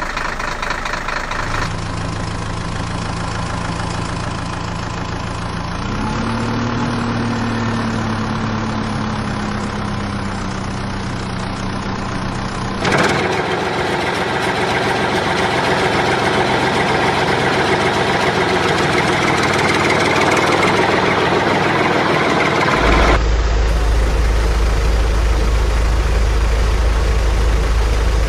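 Heavy machinery engine sounds, running steadily and switching abruptly to a different engine sound several times. About six seconds in the engine revs up and then settles, and the last few seconds carry a heavy low rumble.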